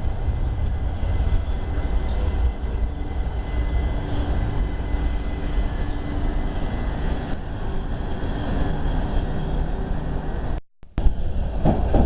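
Southeastern passenger train running through the station: a steady low rumble with a faint even whine. It cuts out abruptly about ten and a half seconds in, and wind buffets the microphone after that.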